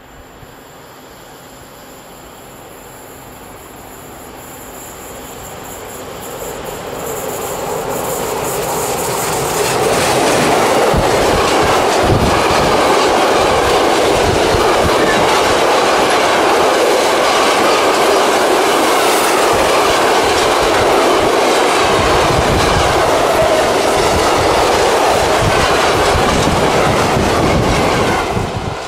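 Electric-locomotive-hauled train approaching, growing louder over about ten seconds, then passing close by with loud steady wheel-and-rail noise and low thumps. The sound drops off abruptly just before the end.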